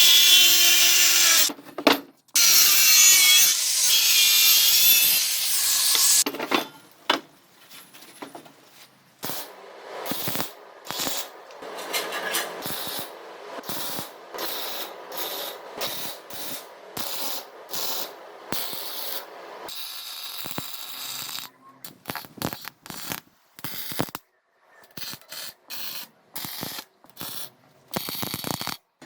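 Workshop tool noise: a loud, continuous cutting or sawing sound for about the first six seconds. It is followed by a long run of short, stop-start mechanical clicking and ratcheting sounds with abrupt breaks between them.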